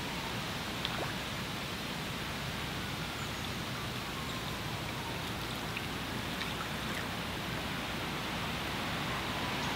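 Steady rushing outdoor noise at a riverbank, with wind blowing, and one faint click about a second in.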